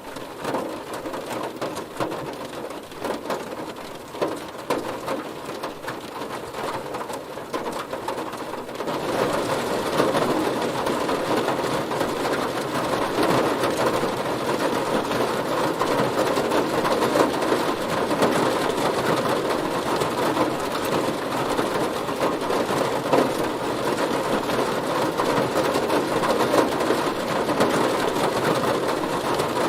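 Heavy rain hitting a car, a dense steady patter of drops on the bodywork that gets louder and heavier about nine seconds in.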